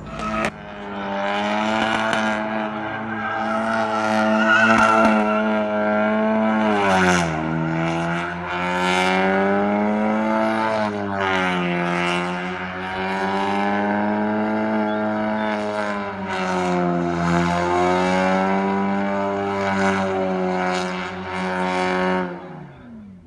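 Car engine held at high revs during a tire burnout, its pitch wavering up and down for about twenty seconds, dipping briefly twice, then falling away just before the end.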